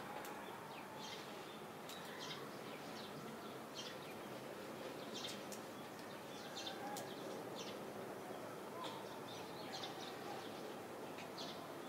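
Small birds chirping in short, high, scattered calls over a steady outdoor background hiss.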